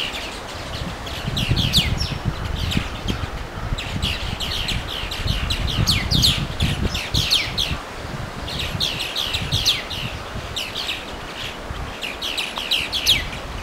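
Small songbirds singing in quick phrases of high, downward-sweeping notes, each phrase repeated every second or two, over a low, uneven rumble.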